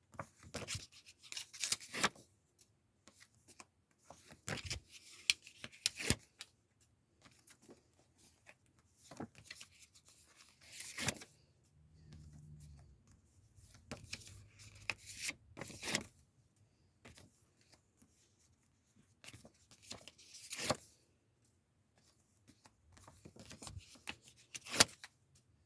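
Sticky notes being peeled off printed photos one after another: short crackly peels and paper rustling, with quiet gaps between them.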